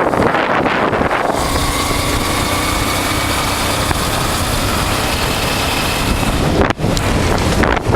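Wind rushing over the microphone of a motorcycle at road speed, with the 1988 Honda Transalp's V-twin engine droning steadily beneath it. The noise dips briefly near the end.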